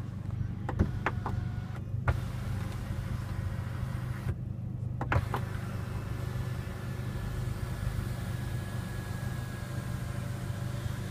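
Steady low hum in a car cabin, with a few sharp clicks of switches in the first half and a faint whine of a small electric motor in the second half.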